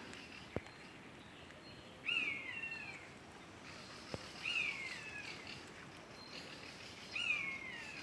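A bird calling three times, about two and a half seconds apart, each call a short slurred note falling in pitch.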